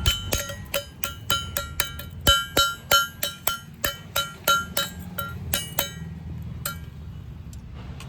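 A hammer striking metal with a ringing clang, about four blows a second for some six seconds, then a few scattered strikes near the end.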